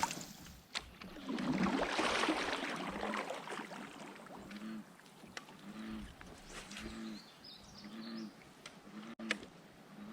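Water splashing as a released bass goes back into the river, then a steady run of short, low, evenly spaced calls from an animal, about one every 0.7 seconds.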